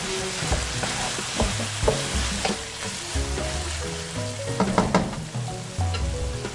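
Chicken strips and sliced onion sizzling in oil in a nonstick wok, stirred with a wooden spatula that scrapes and taps against the pan again and again.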